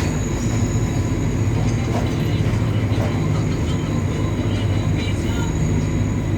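WAG-9 three-phase electric locomotive running, a steady low rumble with a thin, constant high whine over it.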